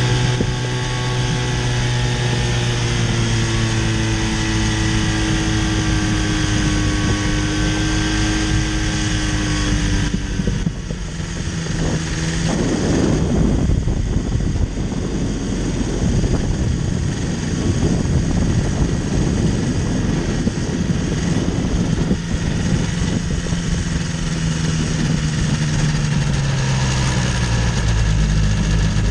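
Microlight trike's engine and pusher propeller running steadily, the engine note sagging slightly in pitch. About ten seconds in the tone changes and a loud rushing noise takes over beneath a lower steady drone.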